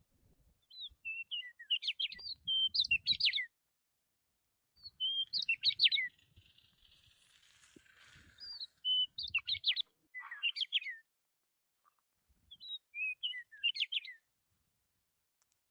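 Budgerigars chirping and chattering in quick, high chirps, coming in several short bouts with brief pauses between them, with a softer scratchy chatter in the middle.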